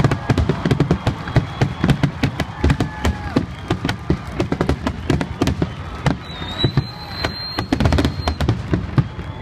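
Aerial fireworks display: shells bursting in quick succession, several bangs a second with no let-up. A thin, high, steady whistle is held for about two seconds past the middle.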